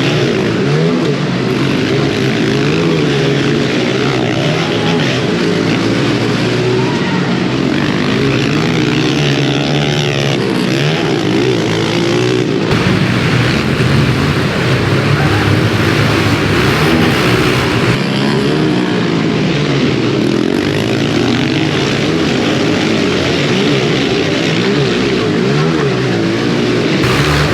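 Several pit bike engines revving hard and falling back together, their overlapping pitches rising and dropping as they race around a track.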